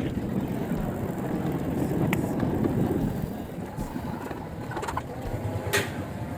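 Steady low rumble of wind and road noise during an electric-bike ride, with two sharp clicks, one about two seconds in and one near the end.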